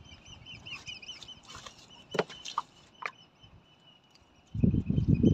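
A small bird calling in a fast run of short repeated high chirps, then a few sharp clicks. Near the end a loud low rumbling noise sets in and is the loudest sound.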